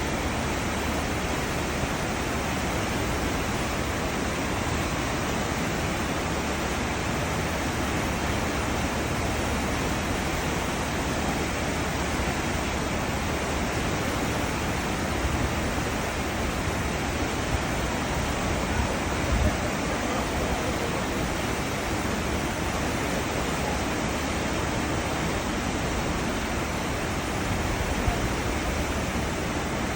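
Cruise ship wake: churned seawater rushing steadily behind the ship.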